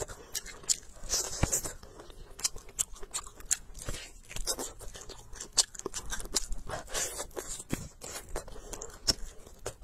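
A person chewing and biting spicy cured duck meat close to the microphone, making irregular sharp clicks and wet smacks.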